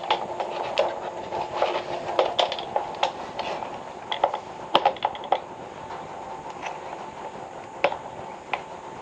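Irregular light clicks and taps of hands and tools handling a water pipe during repair, over a steady background hum.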